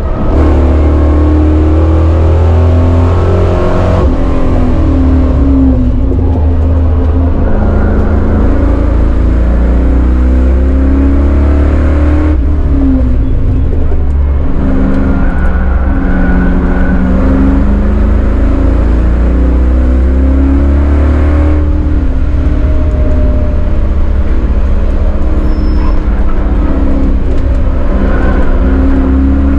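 Chevrolet Caprice 9C1's LT1 5.7-litre V8, fitted with a T56 six-speed manual, heard from inside the cabin at track speed. It carries a heavy steady low rumble, and the engine note rises and falls as the car accelerates and lifts through the lap.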